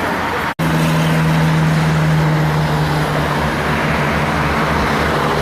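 Heavy truck engine running with a steady low drone over road traffic noise. The sound cuts out for an instant about half a second in.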